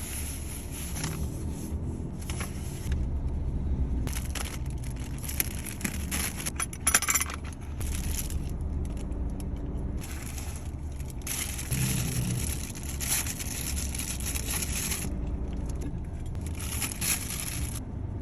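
Eating food inside a car's cabin: irregular crinkling and rustling of food packaging and handling noises, over the low steady hum of the car.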